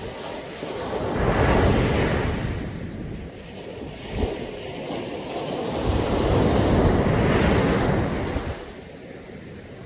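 Caribbean sea waves breaking on a beach: two surges of surf, the first building about a second in and fading, the second, longer one swelling from about five seconds and dying away near the end, with a brief sharp splash between them.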